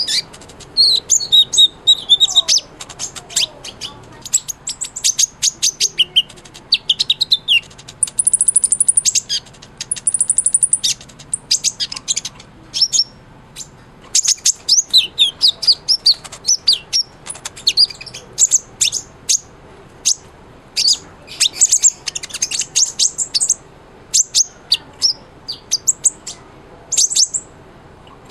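Kolibri ninja, a small sunbird, singing vigorously: rapid phrases of high, thin chirps and trills with brief pauses between them.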